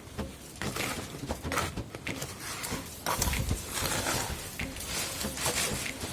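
Cement mix being stirred by hand in a container, with irregular wet scraping, squelching and knocks of the tool against the sides.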